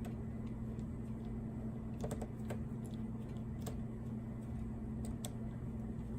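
Scattered light clicks and taps of a screwdriver working a stubborn screw loose from a laptop's plastic bottom case, a few clustered about two seconds in and single ones later, over a steady low electrical hum.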